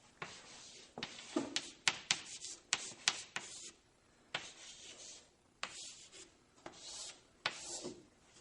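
Handling noises in a small room: rubbing and rustling scrapes broken by a run of sharp clicks and light knocks, irregular and off and on.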